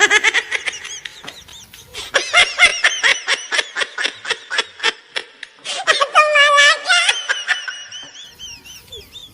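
High-pitched laughter in quick, repeated bursts of several a second, coming in runs with short gaps.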